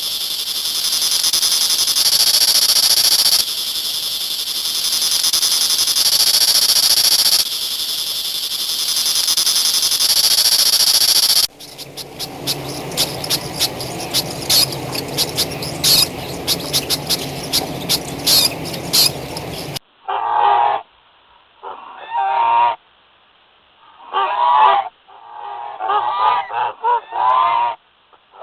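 Geese honking in a series of separate calls over the last third. Before them come two other stretches of animal or nature sound that cannot be told apart: a steady high-pitched hiss, then a stretch of many short sharp sounds over a lower murmur.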